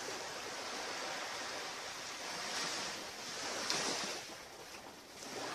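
Ocean surf washing onto a beach: a steady rushing noise that swells and eases, loudest about four seconds in.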